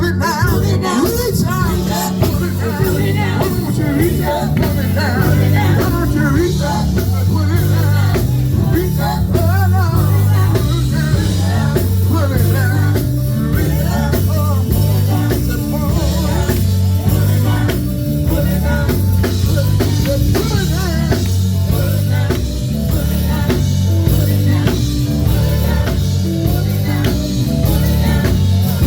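Live gospel band (drums, bass and keyboard) playing a steady groove with a singing voice over it.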